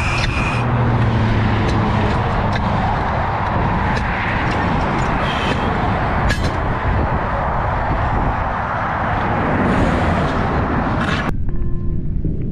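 Steady highway vehicle and road noise with a low rumble and a few sharp clicks. About a second before the end it cuts off suddenly, giving way to quiet music with held tones.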